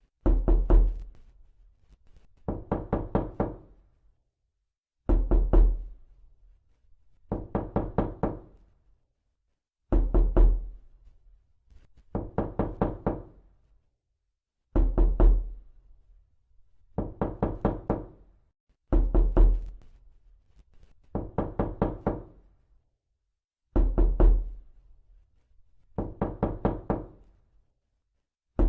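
Knuckles knocking in quick groups of about five knocks, each group lasting about a second, repeating every two to two and a half seconds in a steady pattern.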